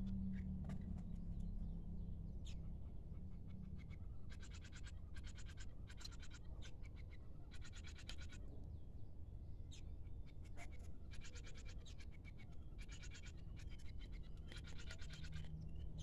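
A small bird giving short, rapid rattling trills, about nine of them, each under a second, in groups over the second half, over a steady low rumble.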